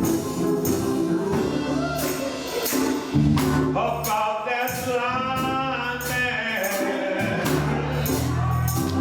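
Live gospel music: singing over a band, with a tambourine striking on a steady beat under a bass line. About four seconds in, a voice holds a long, wavering note.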